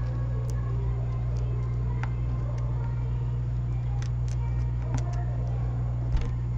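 Steady low electrical hum of workbench equipment, with scattered light clicks of tools against a device's logic board.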